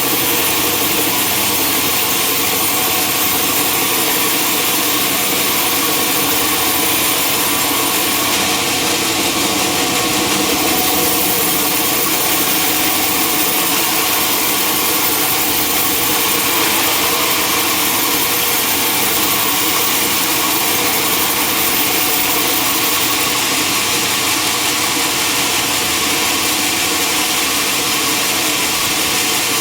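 Sawmill running steadily: a constant machine hum with a loud hiss over it, the high hiss swelling slightly a couple of times.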